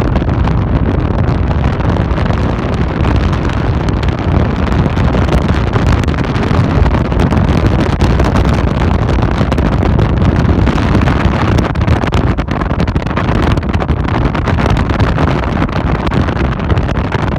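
Steady rumble of a vehicle travelling along a road, with wind buffeting the microphone.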